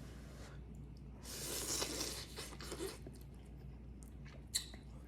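A person slurping hot noodle soup, a breathy slurp lasting about a second and a half, followed by small clicks and one sharp tap of a utensil near the end.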